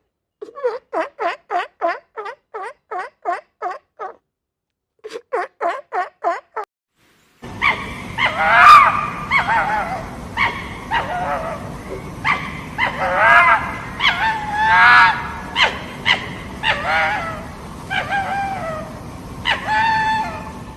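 Turkey calling in a rapid run of evenly spaced pulses, about four a second, broken by two short pauses. At about seven and a half seconds in, a different recording starts, with a steady background hiss and loud animal calls that bend up and down in pitch.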